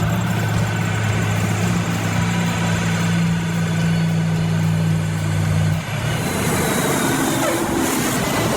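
Heavy truck engine running with a steady low hum; about six seconds in it gives way to a broader, noisier engine rumble.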